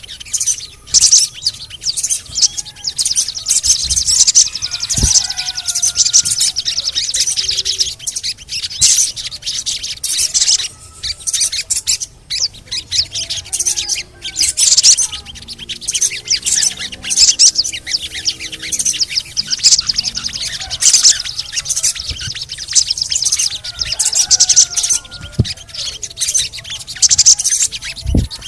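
Sogon (crimson sunbird) singing a fast, unbroken run of high chirps, trills and scratchy chattering (the cret-cretan song). It is a playback lure used to stir other sogon to sing.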